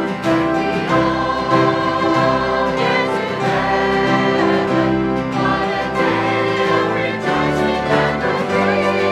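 A choir singing a gospel hymn, several voices holding sustained notes together.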